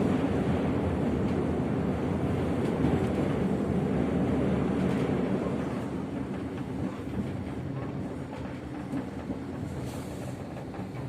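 Local Cepu economy passenger train running on the rails: a steady rumble of wheels and carriage, easing a little in loudness about halfway through.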